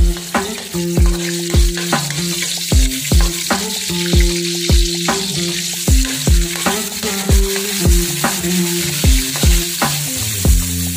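Onion and tomatoes sizzling in hot oil in an aluminium wok as a metal spatula stirs them, a steady hiss. Background music with a steady beat plays underneath.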